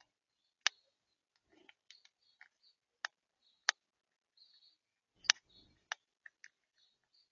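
Birds pecking and cracking seed on a feeder: irregular sharp taps and clicks, about five loud ones among many fainter ticks.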